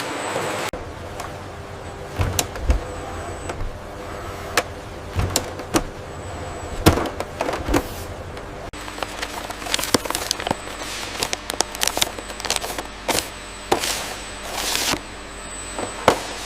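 Assembly-line machinery running with a steady hum, broken by irregular mechanical clicks and clanks of parts being handled and fitted, and a few short hisses in the second half.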